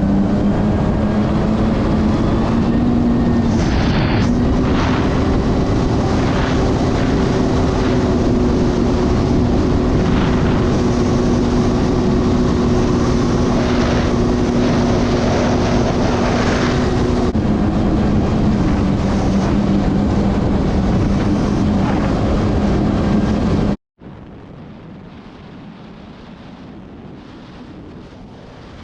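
Kawasaki Ultra 310 jet ski's supercharged four-cylinder engine running under way at a steady speed, its pitch rising a few seconds in and dropping again past the middle. Near the end the engine sound cuts off suddenly, leaving a much quieter rushing of wind and water.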